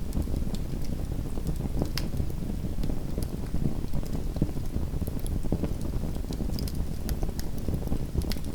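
Small wood fire burning in a fireplace: a steady low rumble of flames with scattered sharp crackles and pops, one louder pop about two seconds in.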